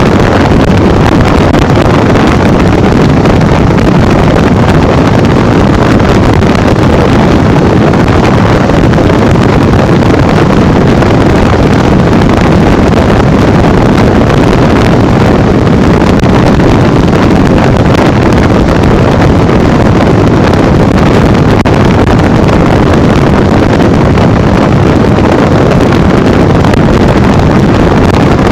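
Heavy wind buffeting the microphone on a moving Honda Bros 150 motorcycle. The wind covers the steady running of its single-cylinder engine at road speed. It is loud and constant, with no change.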